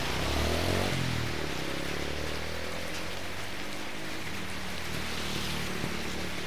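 Heavy rain falling steadily on the wet road, with small motorbikes passing; one engine rises in pitch about half a second in, and others drone past through the rest.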